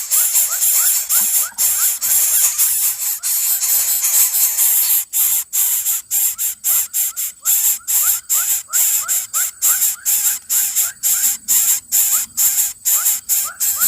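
Raptor chicks begging: a harsh, rasping hiss repeated in rapid pulses several times a second, with faint short rising peeps.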